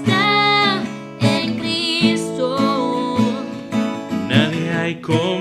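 Worship song: strummed acoustic guitar accompanying a singing voice.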